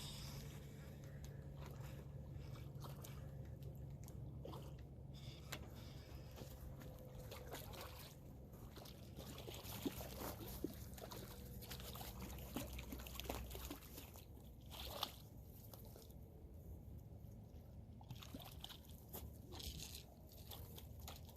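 Faint scattered clicks and sloshing water while a hooked fish is played and reeled in on a rod, over a low steady hum.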